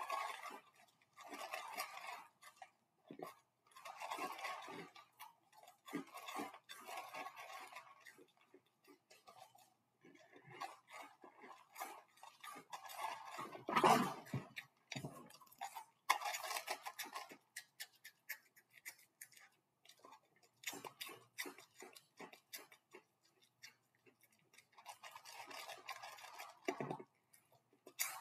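Crunchy breakfast cereal being chewed close to the microphone: rapid crunching and wet mouth clicks in runs of a few seconds, with short pauses between mouthfuls.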